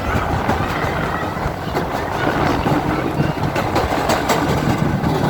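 Narrow gauge train running: a steady rumble of wheels on the track with repeated clicks.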